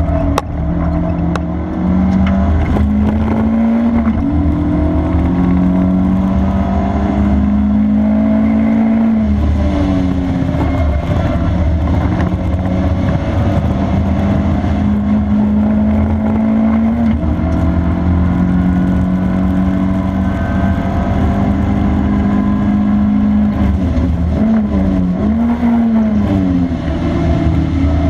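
Honda Integra DC2's four-cylinder engine under hard acceleration, heard from inside the car over heavy low road rumble. The pitch climbs through each gear and drops sharply at three upshifts. Near the end it dips and rises quickly a couple of times as the driver lifts and downshifts.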